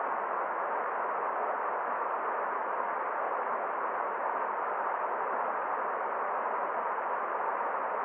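Forest stream water running in a steady, unbroken rush, with no splashes or changes.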